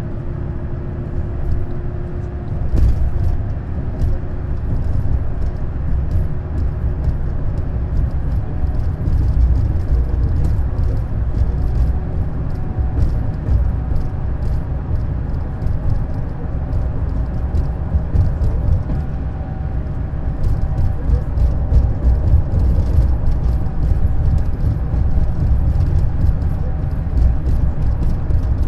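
Neoplan Skyliner N 1122/3C double-decker coach under way, a steady low engine and road drone, with many small rattles and clicks throughout that grow busier about two-thirds of the way in.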